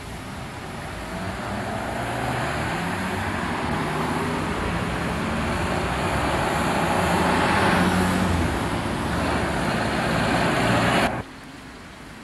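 Motor vehicle engine running in street traffic, growing steadily louder over several seconds as it comes closer. It cuts off abruptly near the end.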